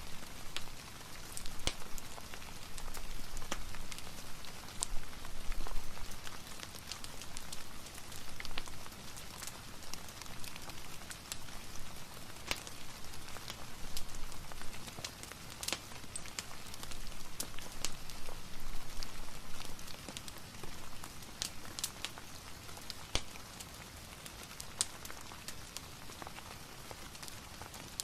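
Steady soft rain hiss mixed with a fireplace crackling, giving scattered sharp pops and clicks throughout.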